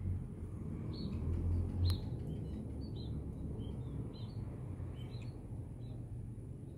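Small birds chirping in short, scattered calls over a steady low rumble, with one sharp click about two seconds in.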